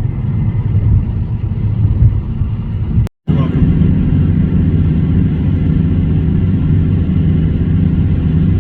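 Road and engine noise inside a moving car's cabin: a loud, steady low rumble. It drops out briefly about three seconds in, where two clips are joined, then carries on.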